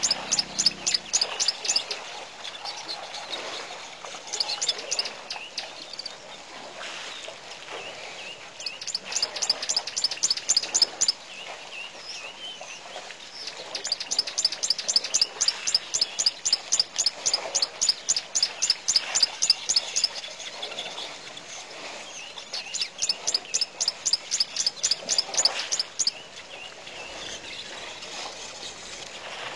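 A bird calling in fast trains of high, sharp chirps, about five a second, in bouts lasting a few seconds with short pauses between, and fainter bird calls behind.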